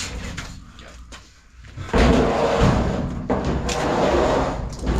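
Knocks and clatter, then from about two seconds in a loud, sustained scraping and rumbling, as a clothes dryer is handled and moved.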